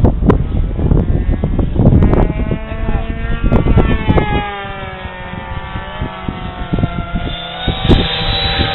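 RC model jet's turbine engine whining, its pitch rising and then falling slowly over several seconds, with gusts of wind on the microphone.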